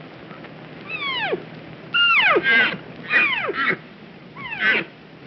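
Deer calling: a series of high, squealing calls, each sliding steeply down in pitch, repeated every second or so.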